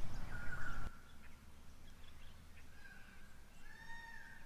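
Birds calling outdoors: a few clear whistled notes, the longest and loudest near the end. A low rumble, likely wind on the microphone, cuts off about a second in.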